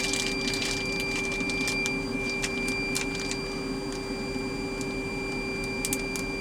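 Plastic zip-top bag crinkling and rustling in short crackles, most in the first second and again near the end, over a steady machine hum with a high whine.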